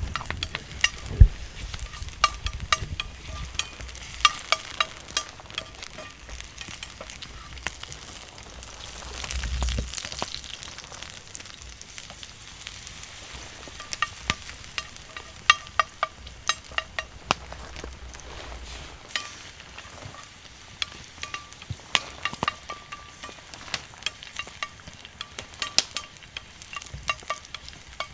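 Wood fire crackling and popping with frequent sharp snaps, with a steady sizzle from steak grilling over it.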